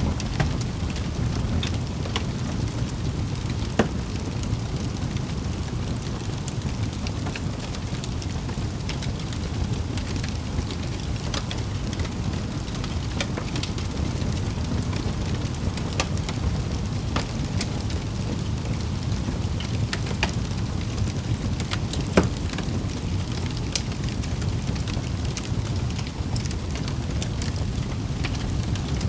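Wood fire burning in a fireplace: a steady low rumble of flames with scattered crackles and small pops, two sharper pops at about 4 and 22 seconds in.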